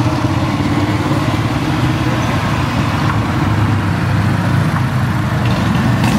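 Slow-moving vehicle engines running at low speed, led by a cruiser motorcycle's engine, growing slightly louder near the end as the bike comes closer.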